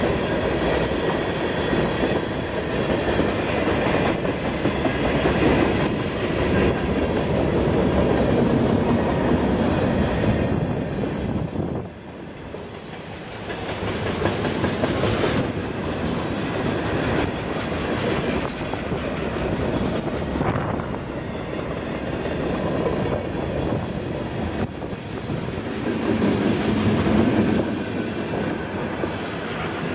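Freight train cars rolling past close by: a steady rumble and clatter of steel wheels on rail, easing off briefly about twelve seconds in before building again.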